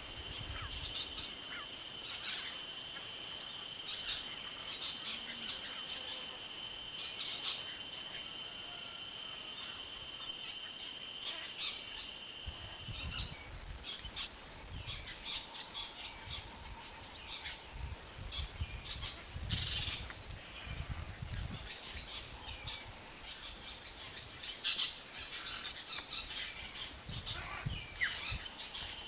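Birds calling in open country: many short high chirps and calls scattered throughout. A steady high-pitched whine runs under them until about halfway, and low rumbles come and go in the second half.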